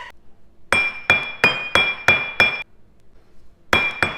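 Quick repeated taps on a hard object that rings at one high pitch, about three taps a second. A run of about six taps comes first, then a pause of about a second, then a second run begins near the end.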